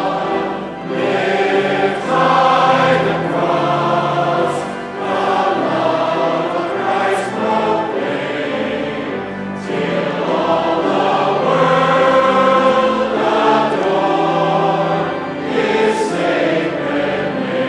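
Choir singing a hymn, several voices in harmony holding long notes.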